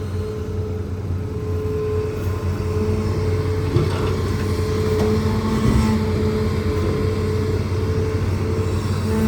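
Hitachi ZAXIS200 excavator's diesel engine running steadily with a constant whine over it, and a few short knocks around the middle.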